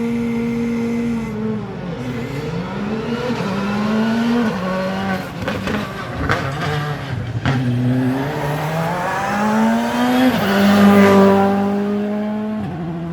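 Rally car engine driven hard on a special stage, its pitch climbing and dropping through several gear changes. A run of sharp cracks comes from the exhaust midway. The car is loudest as it comes closest near the end.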